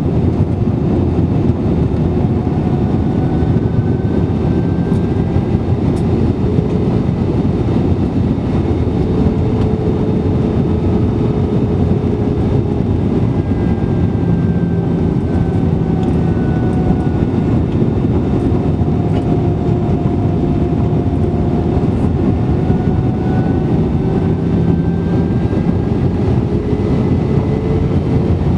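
Airbus A320-200 cabin noise in flight: a loud, steady rush from the engines and airflow. Faint tones drift slowly up and down in pitch over it.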